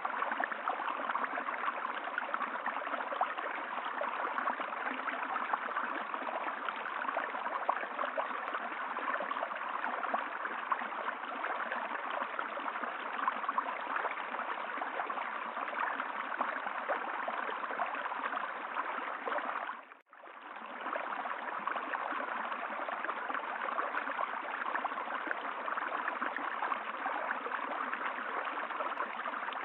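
Steady flowing water of a stream, which fades out to silence and back in about twenty seconds in.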